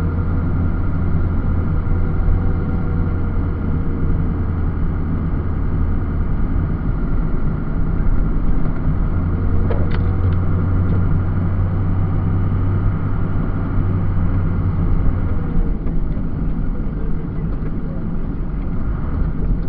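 Snowplow truck's engine running with a steady low drone that eases off about sixteen seconds in, with a brief click about ten seconds in.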